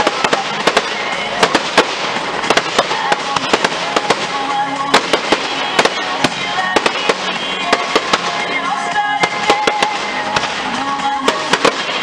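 Fireworks display: many rapid bangs and crackling from shell bursts and crackling stars, with the show's music playing underneath.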